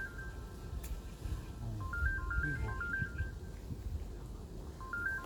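Electronic ringtone melody of stepped beeps, playing twice and repeating about every three seconds, over low rumbling handling noise.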